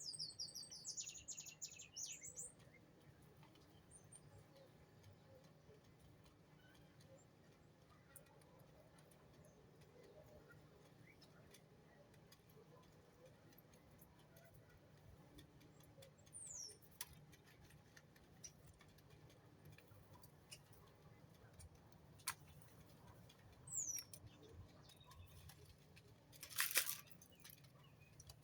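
Small birds giving a few short, high, falling chirps, a handful of seconds apart, with a quick run of chirps at the start and a brief patter of clicks near the end, over an otherwise near-silent background.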